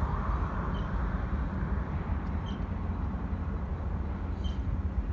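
Amtrak California Zephyr passenger train with two diesel locomotives running by on the track: a steady deep rumble with a wash of wheel and rail noise. Faint short high chirps come now and then.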